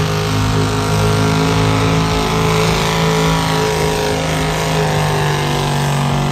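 Heavily modified pulling vehicle's engine running hard at high revs under full load, dragging the weight sled down the track; a loud, steady engine note throughout.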